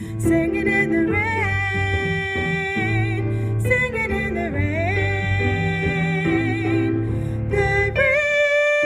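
A soprano voice sings long held notes with vibrato over an instrumental accompaniment, gliding up in pitch about halfway through.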